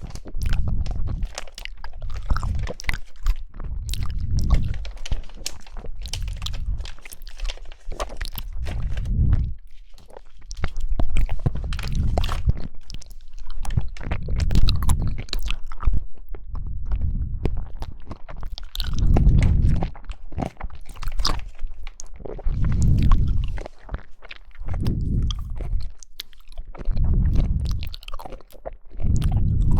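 Jelly being chewed close to the microphone: a low thud every second or two with many small wet clicks between them.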